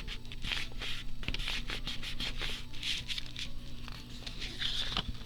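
Paper being rubbed and pressed flat by hand to glue it down onto a journal page: a run of short, irregular scratchy rubs.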